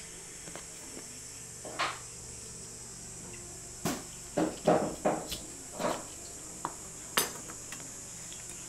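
Irregular metallic clinks and taps, about a dozen short strikes bunched in the middle, as metal tool parts are handled or tapped during draw-knife making, over a faint steady hiss.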